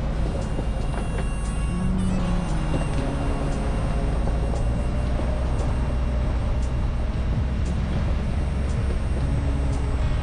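Ford Bronco driving, with a steady rumble of engine and road noise.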